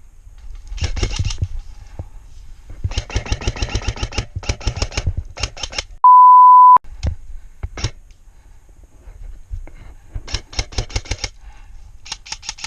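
Airsoft guns firing in rapid bursts of sharp clicks, several bursts in a row. A steady censor bleep tone cuts in for under a second about six seconds in.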